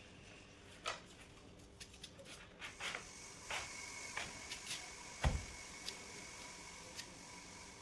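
Scattered clicks and light knocks of tools and parts being handled during transformer assembly, with one heavier thump a little over five seconds in.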